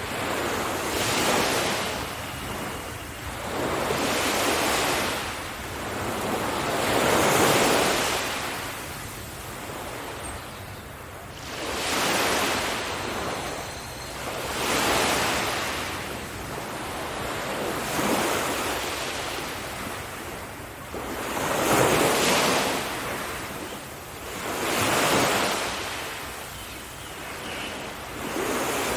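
Ocean waves breaking on a beach, each wave swelling to a hiss and washing back, about one every three to four seconds.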